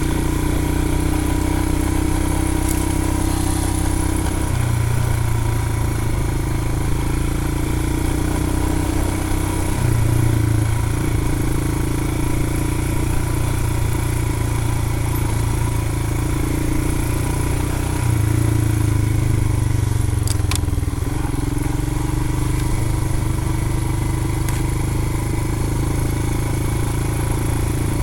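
Royal Enfield Himalayan's 411 cc single-cylinder engine running at low revs while the motorcycle is ridden off road, the engine note stepping up and down several times with the throttle. A couple of sharp clicks come about twenty seconds in.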